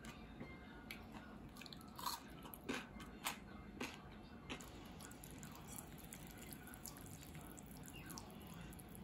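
Crisp crunching of pickled yellow radish (danmuji) being bitten and chewed: about five sharp crunches from around two to four and a half seconds in, then softer chewing.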